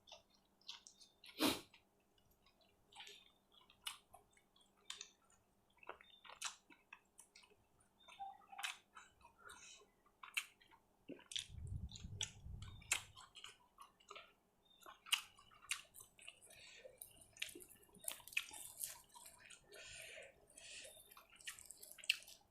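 Close-up eating sounds of a person chewing grilled pork salad and sticky rice: scattered soft mouth clicks and smacks, with a brief low rumble about twelve seconds in.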